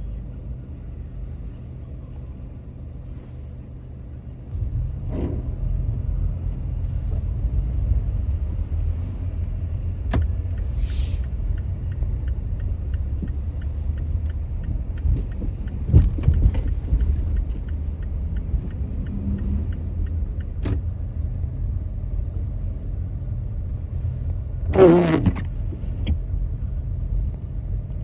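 A car driving on snowy city streets, with a steady low rumble of engine and tyres that grows louder about four seconds in. A few sharp clicks, and a short, louder wavering squeak about three seconds before the end.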